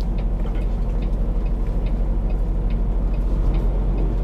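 Semi-truck diesel engine running steadily, heard from inside the cab, with a light regular ticking of about two or three ticks a second.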